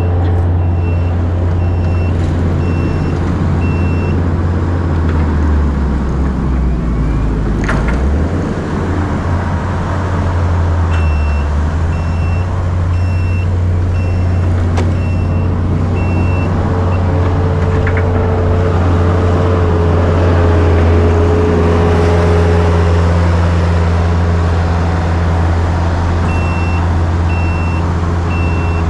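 A vehicle engine running steadily, with a backup alarm beeping about twice a second in three runs: near the start, in the middle and near the end.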